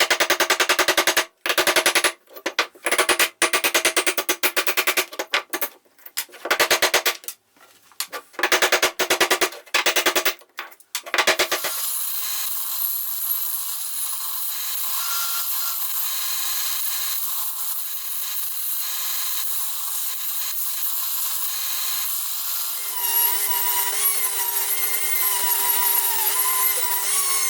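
Rapid-fire hammering in start-stop bursts, chipping the cooling fins off a cast compressor cylinder, for about the first eleven seconds. Then a power tool grinds steadily, with a whining pitch that joins in near the end.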